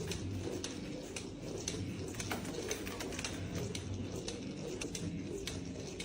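A pet bird making low, continuous cooing sounds, with scattered small clicks.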